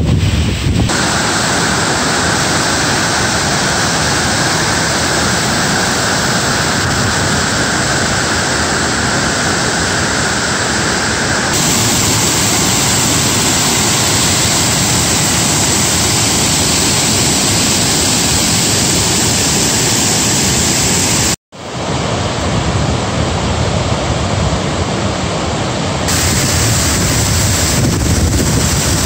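Rushing water of a flood-swollen mountain creek: a loud, steady roar, swelling as rain-fed tributaries and runoff from the slopes pour in. The sound cuts out completely for a moment about three-quarters of the way through.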